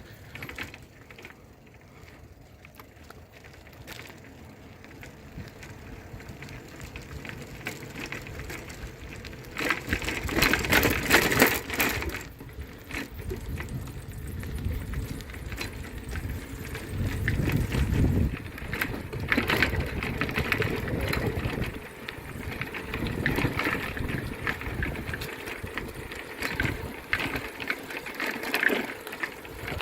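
Noise of a bicycle being ridden: a rumble with rattling that swells and fades, loudest about ten to twelve seconds in.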